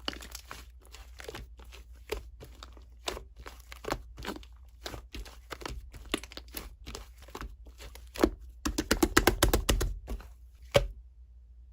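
Pencil strokes on paper: short scratchy strokes, about one or two a second, then a quick flurry of rapid strokes about nine seconds in, with one last stroke just before the end.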